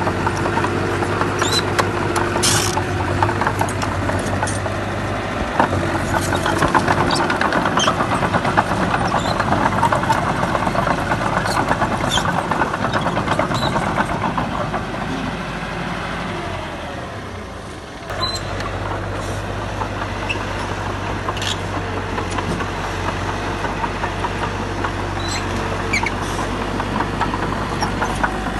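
Diesel engine of heavy earthmoving machinery running steadily under a scatter of clanks and knocks. It eases off somewhat about two-thirds of the way through, then comes back abruptly.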